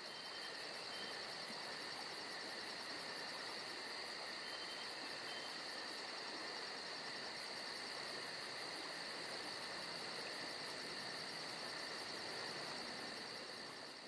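A chorus of crickets or similar insects: a steady high trill with a faster, even pulsing chirp above it, which drops out briefly midway and begins to fade near the end.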